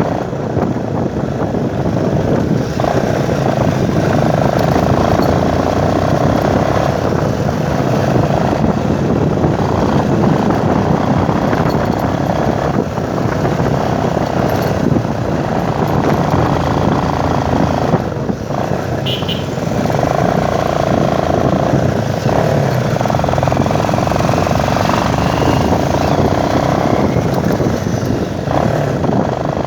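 Motorcycle running along the road, heard from on the bike, with a steady, dense rush of wind noise on the microphone.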